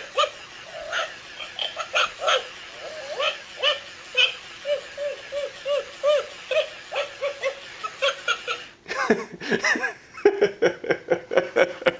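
Battery-powered animated toy puppy playing its recorded laugh: a long string of short, bouncing 'ha' notes, about three a second. The sound grows louder and busier from about nine seconds in.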